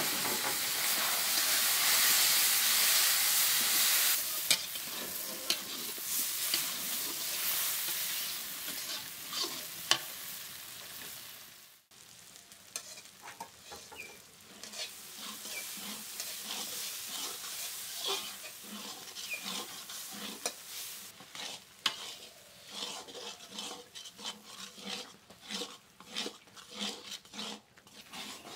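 A vegetable mash frying in hot oil in a wok, sizzling loudly at first and dying down over about ten seconds. After a break about twelve seconds in, a metal spatula stirs and scrapes the mash in the wok with irregular clicks.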